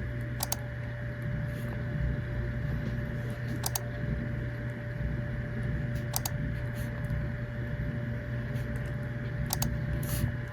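Steady low mechanical hum with a faint constant whine, broken by a few light clicks every few seconds.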